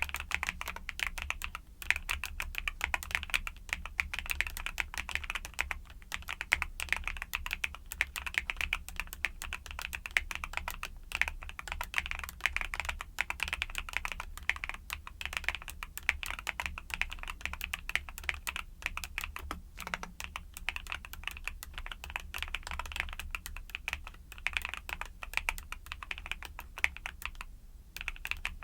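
Continuous typing on a YUNZII mechanical keyboard with Cocoa Cream switches: a fast, dense stream of key clacks, with a brief pause near the end.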